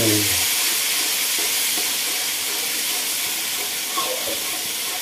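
Chili paste frying in hot oil in a wok, a steady sizzle, with a spatula stirring it through.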